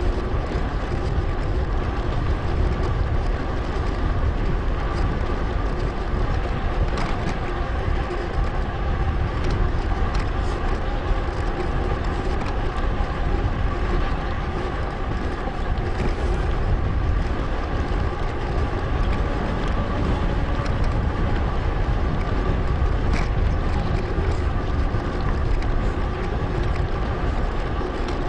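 Steady wind rush on an action-camera microphone, mixed with the tyre and drivetrain noise of a mountain bike rolling along a paved path.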